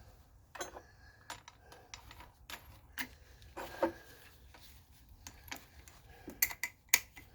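Irregular small metallic clicks and clinks as a new cutoff wheel is fitted onto a cordless angle grinder, a dozen or so short knocks with quiet gaps between them.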